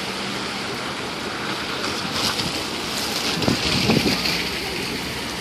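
Street traffic: a steady rush of passing vehicles, with a few low thuds about three and a half to four seconds in.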